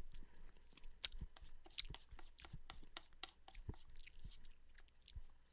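A person chewing and crunching food close to a headset microphone: a faint, irregular run of short crunches and clicks, several a second.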